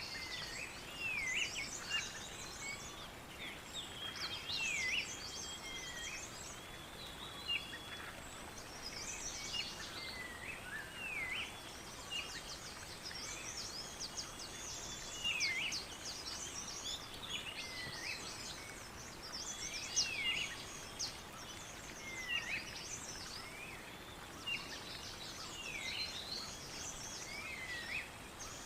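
Several birds singing together, with many quick high chirps and one repeating a short whistle that swoops down and back up every second or two. A thin steady high insect buzz runs underneath.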